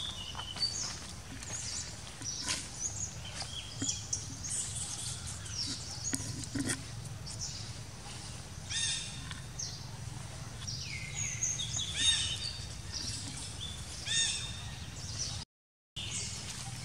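Birds chirping all around: many short, high calls, some sliding down in pitch, over a low steady background hum. The sound cuts out for a moment near the end.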